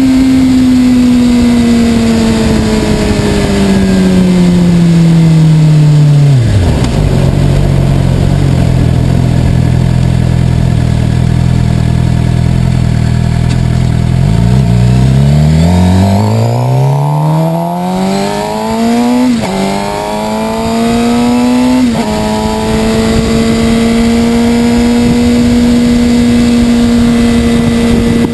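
Suzuki sport motorcycle engine winding down as the bike slows to a stop, then idling for about eight seconds. It revs up again as it pulls away, with two quick gear changes, and settles into a steady cruise, with wind rushing over the microphone.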